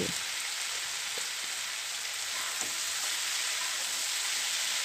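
Cubed potatoes sizzling steadily in oil and spices in a nonstick kadai as they are turned with a spatula, with a few faint light scrapes. This is the kosha stage, the potatoes being browned in their masala.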